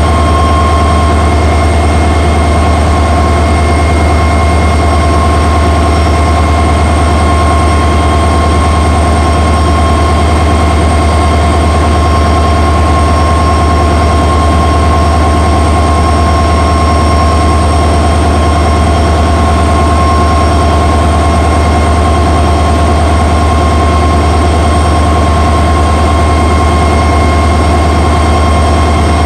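EMD WDP4D diesel locomotive's two-stroke V16 engine running steadily with a loud, constant hum: a deep drone with steady whining tones above it and no change in speed.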